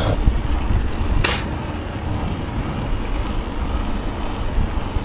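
Wind rumbling on the microphone of a bicycle rider's camera as the bike moves along, with a brief sharp crackle a little over a second in.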